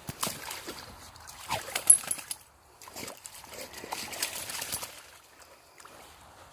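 A cocker spaniel splashing about in a muddy puddle, in two bouts of splashing with a short pause between them, then quieter sloshing near the end.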